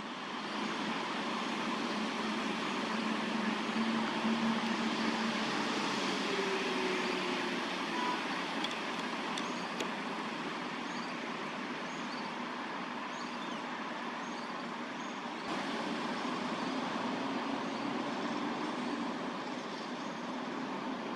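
Steady hum of city road traffic, with faint repeated high chirps in the middle.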